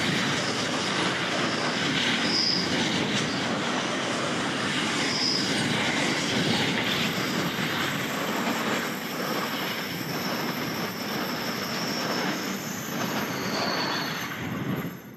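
Container wagons of a long freight train rolling past on a curve: a steady rumble and clatter of steel wheels on rail, with brief high wheel squeals several times and a longer one later on. It dies away quickly at the very end.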